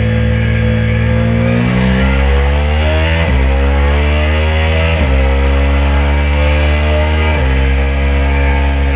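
2022 KTM RC 390's single-cylinder engine holding a steady note, then accelerating hard: its pitch climbs and drops suddenly at three upshifts, the last about three quarters of the way through, after which it holds a steadier pitch.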